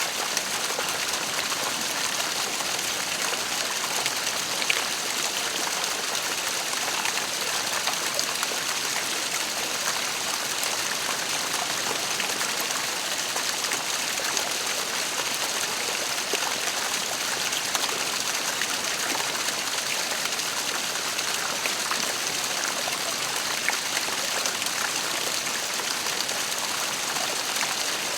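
A waterfall's water pouring and splashing in an even, steady rush, with small splashes flicking through it.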